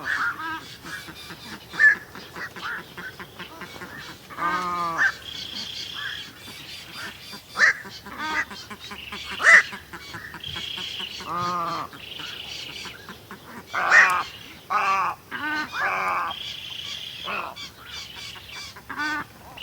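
Birds calling: a busy mix of short chirps and whistles, repeated buzzy notes, and a few longer, lower, harsher calls about 4, 11 and 14 seconds in.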